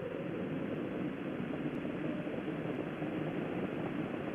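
Steady rushing rumble of the Space Shuttle Challenger's launch as it climbs, heard through dull, old broadcast audio.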